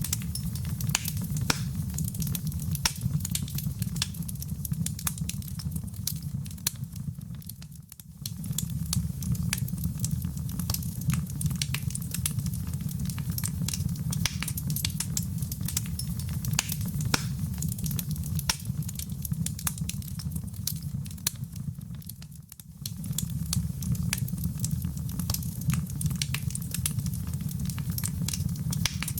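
Wood fire in a fireplace crackling, with frequent sharp pops over a steady low rumble. The sound fades down briefly twice, about eight seconds in and again about twenty-two seconds in, where the fire recording loops.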